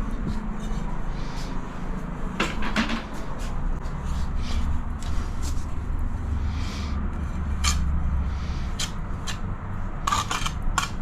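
Ceramic tile being set into adhesive and tapped into place: scattered light knocks and clicks, several in quick succession near the end, with a low hum for a few seconds in the middle.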